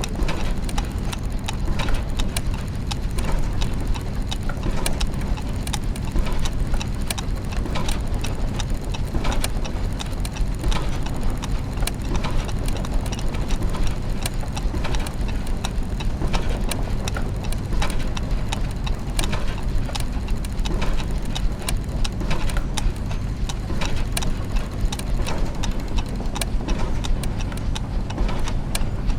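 Clockwork gears and mechanisms ticking and clicking in a dense, irregular mesh over a steady low mechanical hum.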